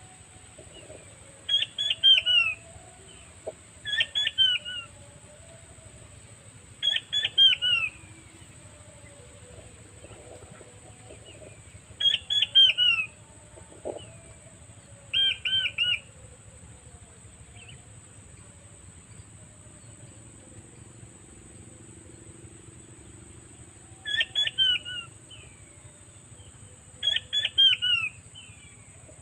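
Puyuh batu (king quail, also called blue-breasted quail) calling in seven loud bouts. Each bout is a quick series of three or four whistled notes that fall in pitch.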